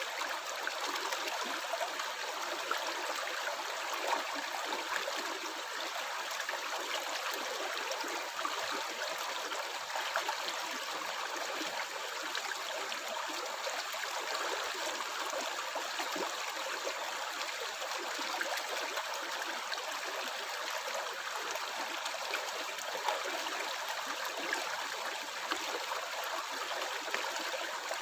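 Stream water flowing and gurgling steadily, with many small splashes.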